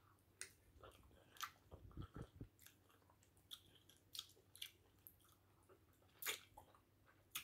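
Faint mouth sounds of eating potato fufu with egusi soup: scattered soft wet smacks and clicks of chewing, the clearest about six seconds in.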